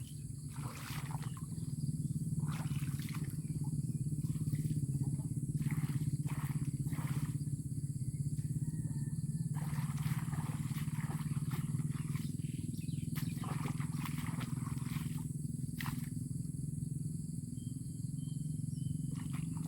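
A steady low rumble with irregular short knocks and splashes, as fish and shrimp are sorted by hand from a trap's catch.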